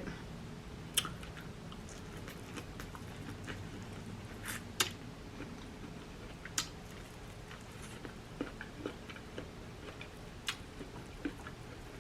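A person chewing food close to the microphone: soft mouth sounds broken by a few sharp wet clicks and smacks, two of them close together about four and a half seconds in.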